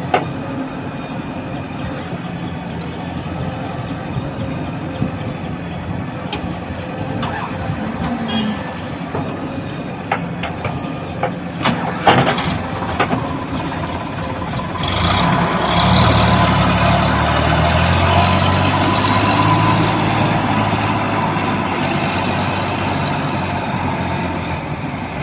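Heavy diesel machinery engine running steadily, with several sharp metal clanks and knocks partway through, then revving up louder under load about fifteen seconds in.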